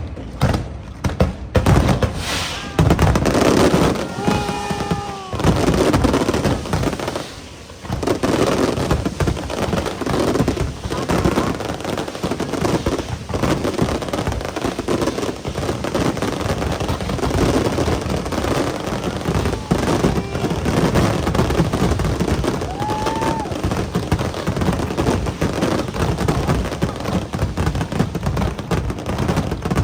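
A fireworks display: a dense, continuous run of bangs and crackling from aerial shells, with crowd voices rising now and then.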